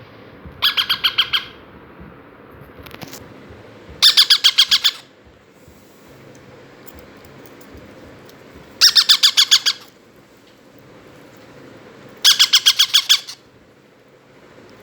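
Three-week-old Indian ringneck parakeet chicks calling in four short bursts of rapid, rhythmic squawks, each burst about a second long.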